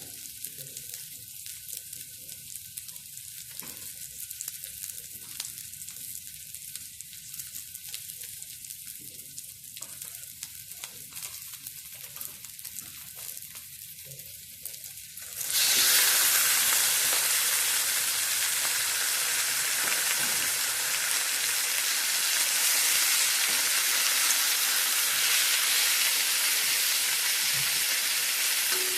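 Food sizzling as it fries in hot oil. About halfway through, the sizzle jumps suddenly to a much louder, fuller hiss and stays there.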